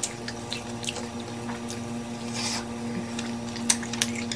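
Close-up wet chewing and lip-smacking of sticky, caramelized-sugar-coated fried banana (banana cue): irregular moist clicks and squelches, with a short hiss about two and a half seconds in, over a steady low hum.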